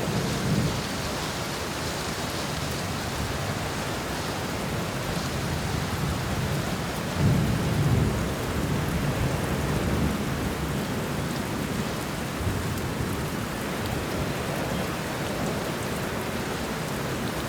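Steady heavy rain with thunder rumbling low, swelling at the start, about seven seconds in and again around ten seconds.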